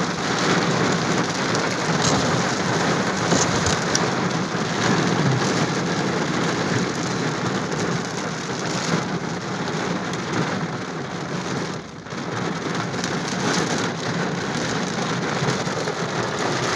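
Heavy rain pouring down in a steady, dense hiss, dipping briefly about twelve seconds in.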